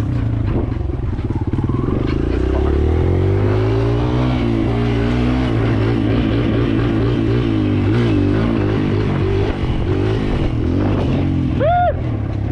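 Kawasaki KLX140L dirt bike's single-cylinder four-stroke engine being ridden, its pitch climbing and dropping as the throttle is opened and eased off.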